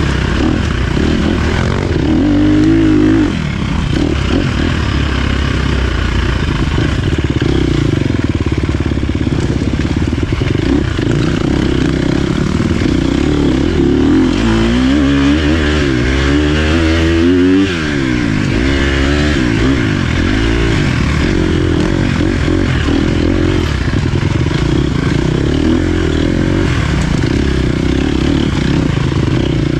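Dirt bike engine running loud as the bike is ridden, the revs rising and falling through the gears, with a quick run of up-and-down revving in the middle.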